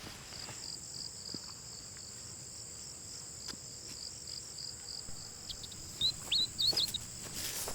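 Insects shrilling with a steady high drone and a rapid pulsed chirping, about four pulses a second, that stops about five seconds in. Near the end a bird gives a few short chirps, the loudest sounds here.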